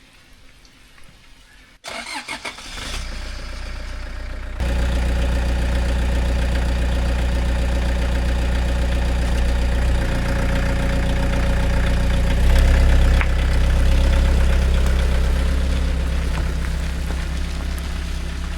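A 20-year-old Toyota Hiace van's engine is cranked with a few quick starter pulses, catches, and settles into a steady idle that steps up a couple of seconds later. A faint hiss is heard briefly before it.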